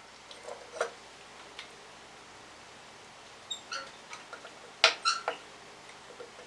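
Metal hand tools clinking and tapping against engine parts: a few light clicks, then a sharper pair of clanks with a brief metallic ring about five seconds in.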